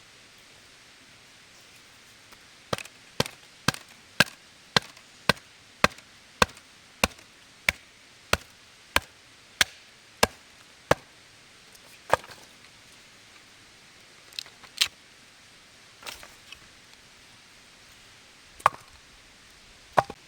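Chopping with a blade on wood: a steady run of about fifteen sharp strokes, roughly two a second, then a few scattered strokes several seconds apart.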